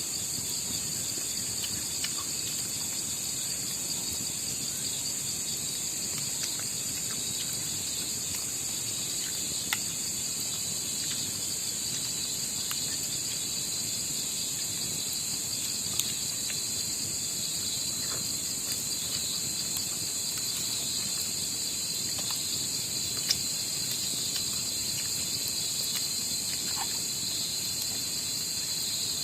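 Steady chorus of night insects, crickets among them, chirring without a break, with a few faint sharp ticks here and there.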